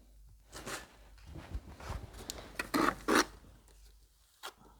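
Short scraping and rubbing strokes of a mason's trowel working mortar against brick, the two loudest close together about three seconds in.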